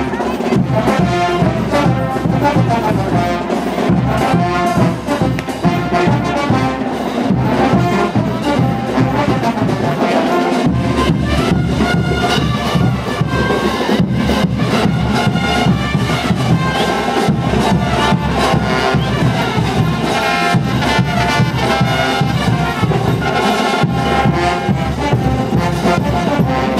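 Brass band playing diablada music, with trumpets and trombones over steady drum strokes.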